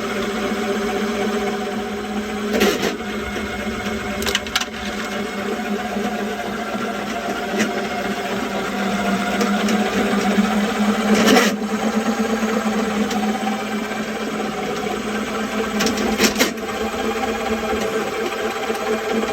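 Spartan 300 electric drum drain-cleaning machine running steadily, its cable spinning against a grease-and-kasha sewer stoppage, with several sharp knocks along the way.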